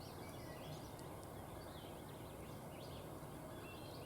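Small songbirds chirping faintly and repeatedly over a steady low hum of open-air background noise.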